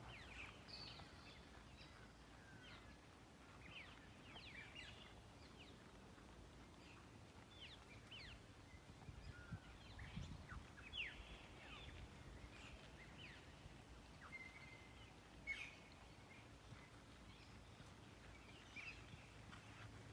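Faint birdsong: many short chirps and quick whistles from several birds, scattered throughout, over a low steady background rumble.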